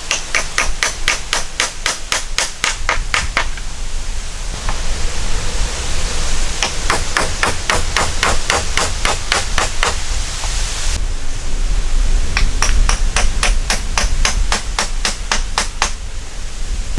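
Hammer striking in three runs of quick, even blows, about four a second, with short pauses between the runs, over a steady background hiss.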